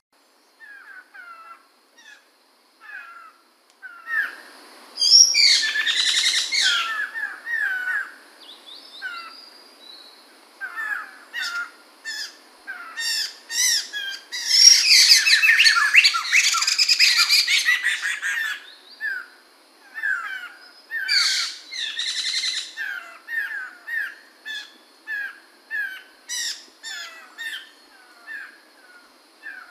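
A poksay mantel (black-throated laughingthrush) singing: a run of short, repeated whistled notes broken by louder, fuller song phrases, the longest and loudest about halfway through.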